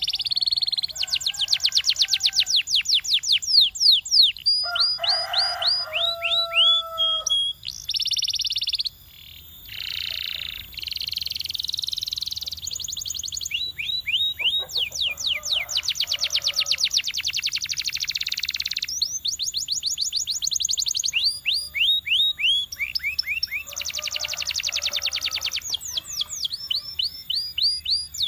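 Canary singing a continuous song made of fast trills of rapidly repeated down-slurred notes. It switches to a new trill every second or two, with a few lower rolling passages mixed in.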